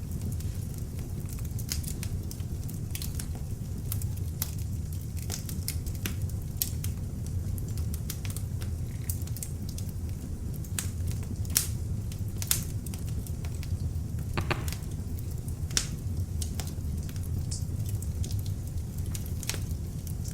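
Beech-wood log fire burning in an open fireplace: a steady low rumble of flame with irregular crackles and sharp pops from the burning wood, a couple of louder pops a little past the middle.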